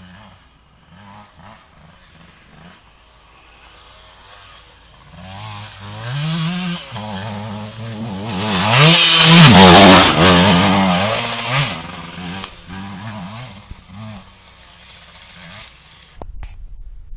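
Motocross bike approaching, revving up and down through the gears, and passing close about halfway through at its loudest, then fading into the distance.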